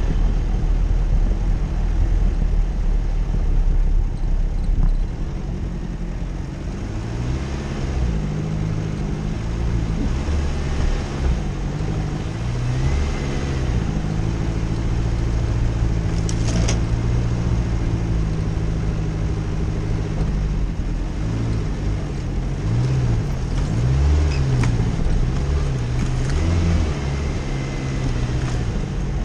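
Jeep Cherokee's engine running under varying throttle while driving off-road, its pitch rising and falling again and again. A single sharp knock about halfway through.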